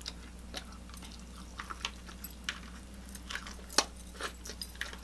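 Close-miked wet chewing and lip smacking while eating seafood: irregular short smacks and clicks, with one sharper click nearly four seconds in.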